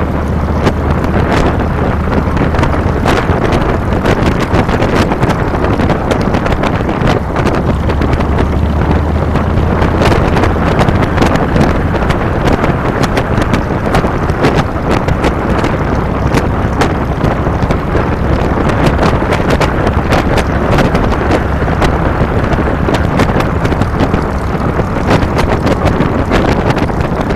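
2007 Harley-Davidson Fat Boy's V-twin engine running under way, with heavy wind buffeting on the handlebar-mounted microphone. The low engine note grows stronger briefly near the start and again about eight seconds in.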